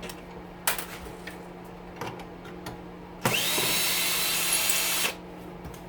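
Power drill running for about two seconds, its motor whine rising and then holding steady, as it backs a long screw out of the part. A few light knocks of handling come before it.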